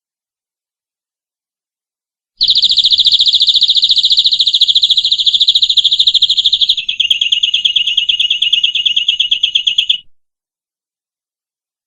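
Domestic canary singing: beginning about two seconds in, a fast rolling trill of rapidly repeated high notes lasting about four seconds, then a slightly lower trill of about three seconds that stops abruptly.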